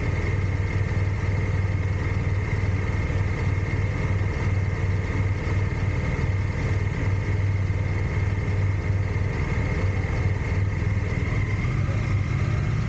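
Triumph Tiger Sport 660's three-cylinder engine idling steadily, with no revving.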